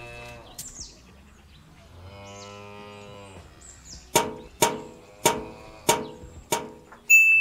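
A cow mooing: one long low call about two seconds in. Then five sharp, ringing metallic knocks, evenly spaced, and a bright chime tone starting near the end.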